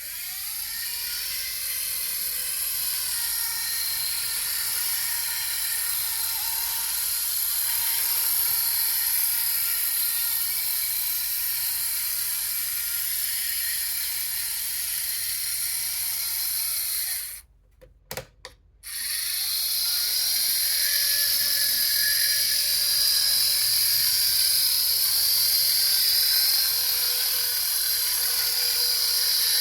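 Model Shay geared locomotive running under power, its small electric motor and gear train whirring steadily with a high whine. It runs smoothly after adjustment. Just past the middle it stops for about a second and a half, with a couple of clicks, then starts again.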